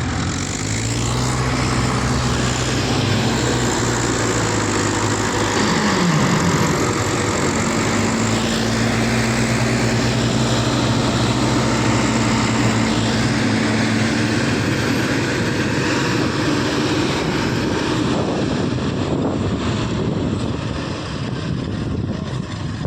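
Heavy diesel engines of farm machinery running hard and steadily, the combine harvester and tractors at work. The engine note dips briefly in pitch about six seconds in, then holds steady again.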